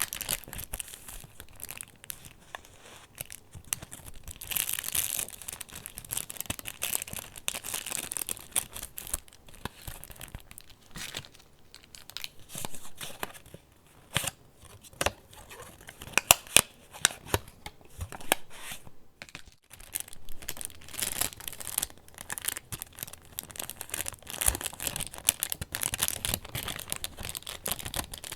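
Pages of a handmade paper junk journal being turned and handled, with irregular rustling and crinkling of layered paper and sharp papery snaps, loudest about halfway through.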